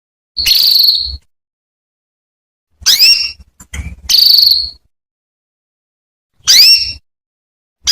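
Female domestic canary calling: short whistled call notes, some sweeping sharply upward and others held level and buzzy, about four calls a second or two apart. These are the female's calls used to draw a male canary into song.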